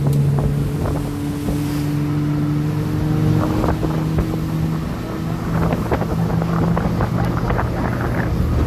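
Tour boat's engine running with a steady low hum, with wind buffeting the microphone, gustier in the second half.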